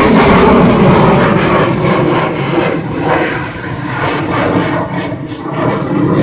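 Jet fighter's engines running loud during a display flyover, easing off in the middle and building up again near the end.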